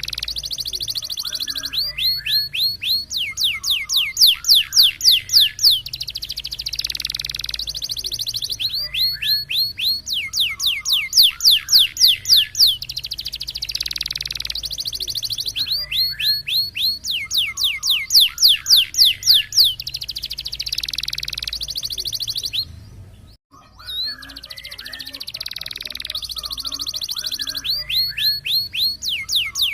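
Domestic canary singing a long contest-style song: runs of loud, rapidly repeated falling whistled notes, about seven a second, alternate with fast rolling trills, the pattern coming round every few seconds. The song breaks off for a moment about 23 seconds in.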